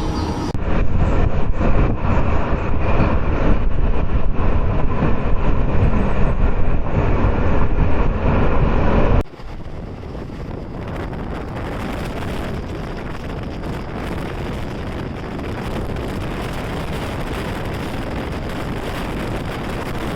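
Passenger train running along the track: loud rumble with wind buffeting the microphone. About nine seconds in it cuts suddenly to a quieter, steady running noise.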